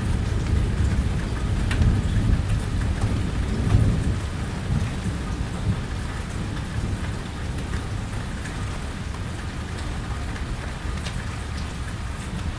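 Steady rain falling on a porch during a thunderstorm, with a low rumble of thunder that dies away over the first few seconds. Now and then a single drop ticks sharply.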